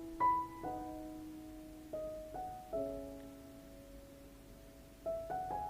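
Soft background piano music: single sustained notes and chords struck every second or so, each ringing and fading slowly.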